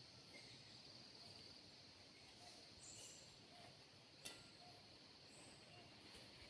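Faint forest ambience, close to silence: a steady high insect drone with a few faint short chirps and one sharp click about four seconds in.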